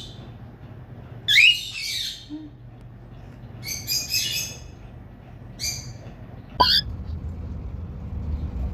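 Cockatiel giving short, harsh squawking calls, three of them a second or two apart, the first starting with a rising sweep. About two-thirds through comes a brief sharp sound, then low rumbling.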